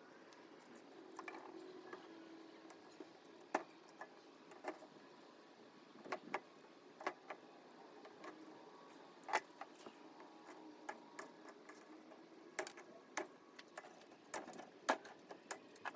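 Irregular light clicks and taps, about a dozen, over a faint steady hum.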